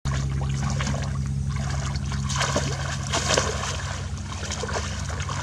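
Water splashing and trickling as fish are caught by hand, over a steady low hum.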